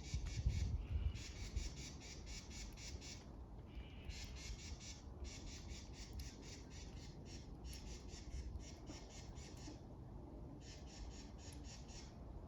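A bird giving fast, rattling chatter calls in repeated bouts of one to two seconds with short pauses between them. A low rumble sounds in the first second.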